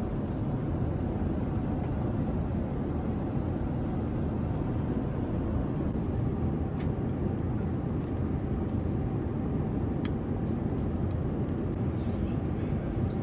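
Steady airliner cabin noise inside a Boeing 787-9: an even, low rumble with a faint steady hum, and two faint clicks about seven and ten seconds in.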